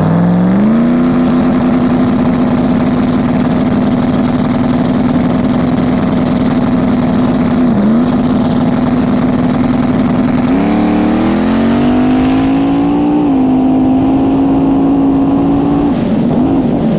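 Turbocharged drag-racing truck engine under throttle. Its pitch climbs at the start and holds level, dips briefly about eight seconds in, climbs again around eleven seconds, then settles. Near the end it wavers and falls off as the throttle is lifted.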